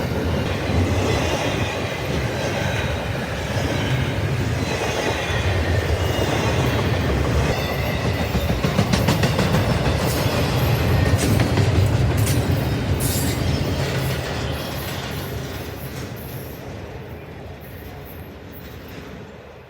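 Norfolk Southern intermodal freight train rolling past, its cars' wheels clattering over the rails with a faint high wheel squeal in the first half. The sound fades steadily over the last five seconds as the train draws away.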